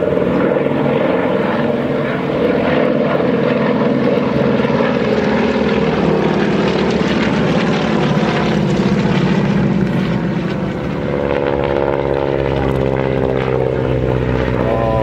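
Formation of radial-engined piston trainers (Harvard T-6, Winjeel and Nanchang CJ-6) flying past with a loud, steady engine and propeller drone. The engine note shifts in pitch over the last few seconds as the aircraft pass.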